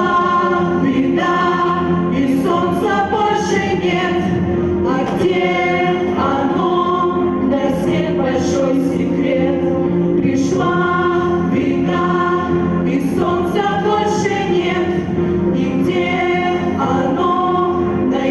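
A group of voices singing a song together over musical accompaniment, with held notes.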